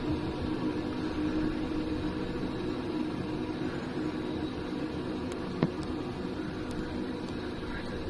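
Steady hum of a passenger train rolling slowly, heard from on board, with a few fixed tones over an even rumble. A single sharp click sounds about five and a half seconds in.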